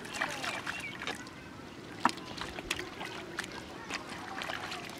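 Shallow muddy water sloshing and splashing as hands and feet work through it, with scattered small splashes and clicks and one sharp click about two seconds in.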